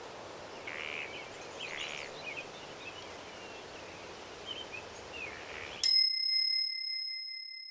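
Forest ambience with songbirds chirping over a steady outdoor hiss, cut off suddenly about six seconds in by a single bell ding that rings on and slowly fades: the timer signal marking the end of a one-minute interval.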